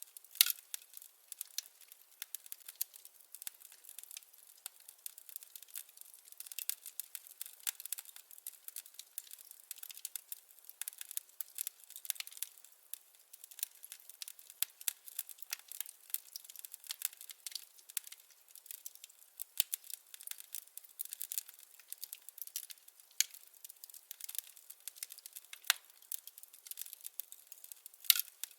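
Wood fire crackling: a steady scatter of small snaps and ticks from burning firewood, with a few louder pops, one just after the start and a couple near the end.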